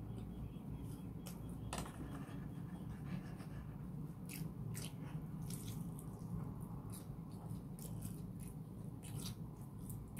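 Close-up eating sounds from a deep-fried breaded shrimp: chewing with many short wet mouth clicks, thicker in the second half, over a steady low hum.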